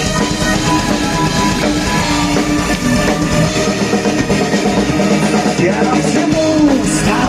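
Rock band playing a song's instrumental intro live, with a drum kit and electric guitar and no vocals yet.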